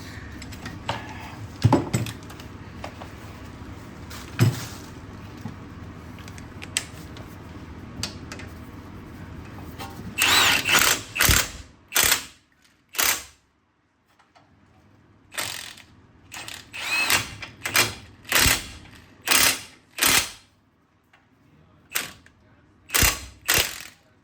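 A handheld power tool, such as a cordless ratchet or drill-driver, runs in many short bursts from about ten seconds in, some spinning up with a rising whine, as bolts are driven on a car's front brake assembly. Before that there are only a few knocks of tools and parts.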